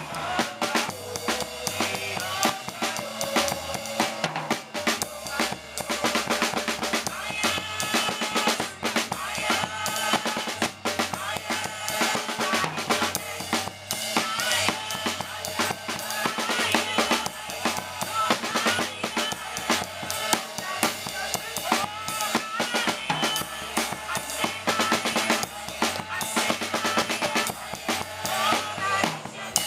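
Live gospel music: a drum kit with kick drum, snare and rim hits drives a stepping bass line and other pitched instruments, playing without a break.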